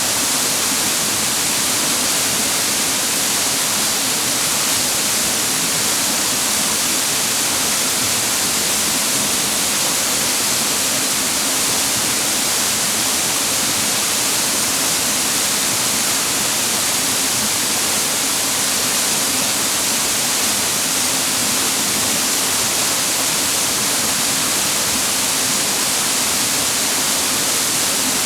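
Steady, even rush of water pouring down a mountain waterfall, a constant hiss with no pauses.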